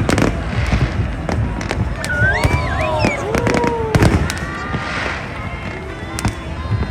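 Fireworks bursting in quick succession: a string of sharp bangs over a continuous low rumble, with a loud bang about four seconds in.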